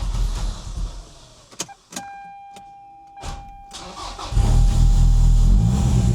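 Toyota 3S-GTE turbocharged four-cylinder cranking on the starter, then after a few clicks and a steady electronic tone, a second crank on which it fires about four seconds in and keeps running loudly. This is the engine's first start after sitting for nearly two years.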